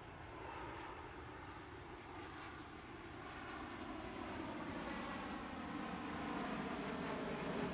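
Boeing 737 MAX 8's CFM LEAP-1B turbofans on an arrival approach: a steady jet rumble that grows gradually louder as the airliner comes closer.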